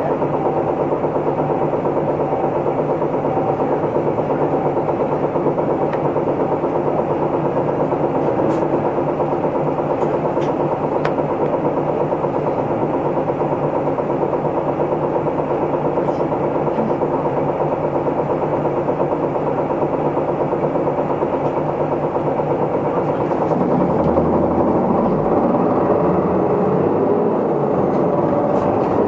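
Isuzu Erga Mio bus's diesel engine heard from inside the cabin, idling steadily; near the end the engine note rises and wavers as the bus pulls away.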